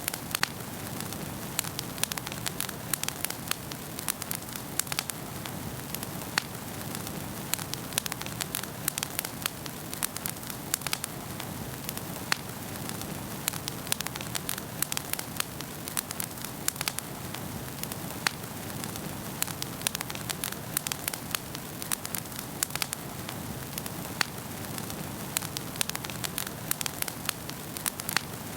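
Wood fire crackling in a fireplace: frequent irregular sharp pops and snaps over a steady low hiss of burning logs.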